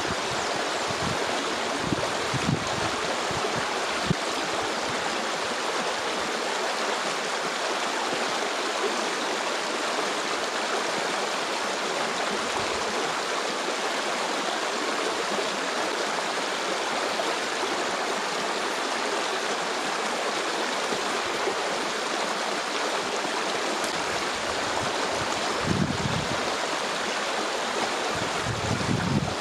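A stream flowing, a steady rushing of water. Wind gusts buffet the microphone near the end.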